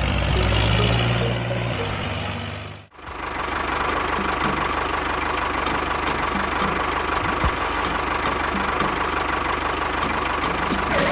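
A motor or engine running steadily. The sound cuts out abruptly about three seconds in, then resumes as a steady hum with a light, evenly repeating tick.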